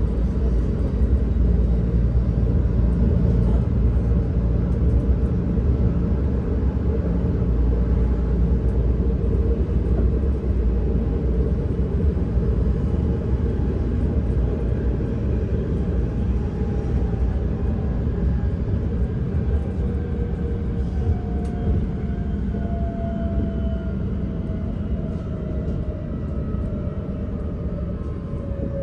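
Electric S-Bahn train running, a steady low rumble; from about two-thirds of the way through, a motor whine falls steadily in pitch as the train slows.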